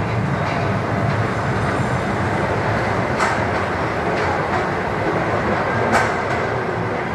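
Miniature C.P. Huntington-style passenger train running along its track, its wheels and running gear making a steady rolling noise, with two sharp clacks about three and six seconds in.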